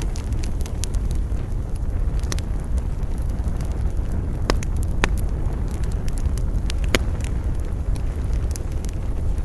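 Campfire burning with a steady low rumble and sharp crackles and pops of the burning wood, the loudest about halfway through and near 7 seconds. Wind adds to the low rumble.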